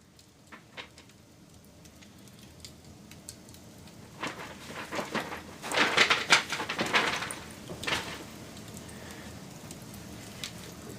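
Wood fire crackling. Scattered snaps build into a dense burst of crackles and pops through the middle, loudest about six seconds in, then settle back to a low hiss with the odd snap.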